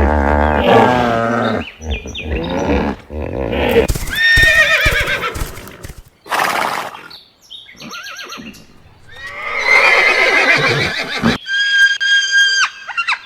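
Horses neighing, several separate wavering whinnies with pauses between them. Near the end a steady high tone sounds for about a second and cuts off.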